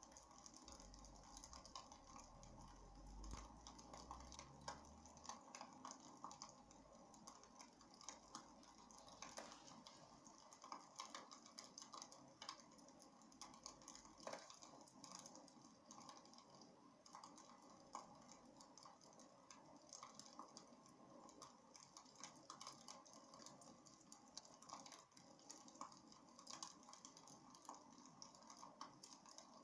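Wood fire crackling in a fireplace: a soft, constant scatter of small irregular pops and snaps over a faint hiss.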